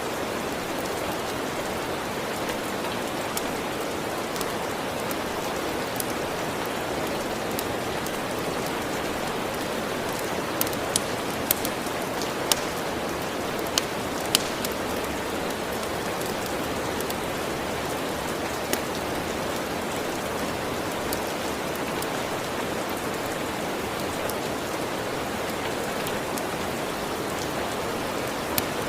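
Steady rain falling on a surface, an even hiss of drops. A handful of sharp pops stand out over it, most of them around the middle.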